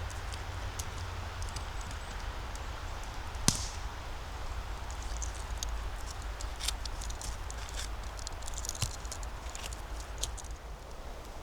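Footsteps crunching through dry forest-floor litter, with scattered crackles of leaves and twigs and one sharp twig snap about three and a half seconds in.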